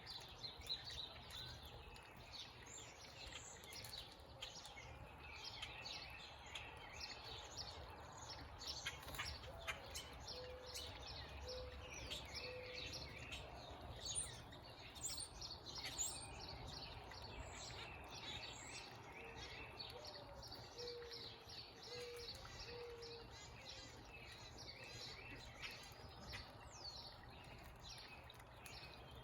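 Backyard birds chirping and calling over one another, with two runs of a low, evenly repeated cooing note in the middle. A steady low rumble of background noise lies underneath.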